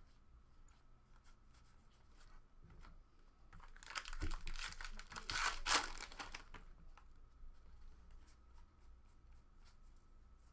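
A foil trading-card pack being torn open, a crackling tear lasting about three seconds that starts a little under four seconds in, with light clicks of cards being handled around it.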